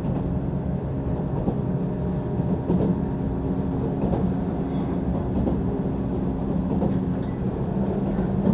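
Running noise of a JR East 185 series electric train heard from inside the car: a steady rumble of wheels on rail with a low, even hum and a few faint clicks.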